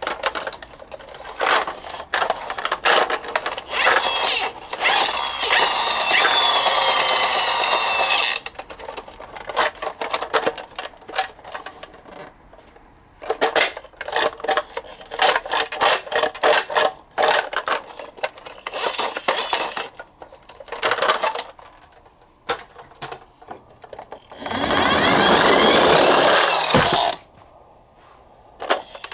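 A toy garbage truck and a cardboard box being handled: a run of small clicks, knocks and rustles, with two long stretches of loud, scratchy scraping, one early on and one near the end.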